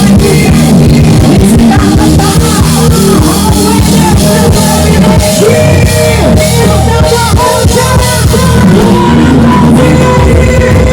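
Arrocha band playing: loud music with a steady drum beat, heavy bass and a gliding melody line.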